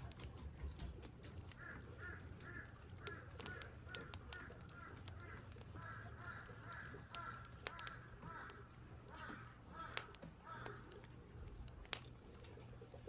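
Crows cawing over and over in a long run of short, harsh calls, stopping about two seconds before the end, with scattered sharp clicks alongside.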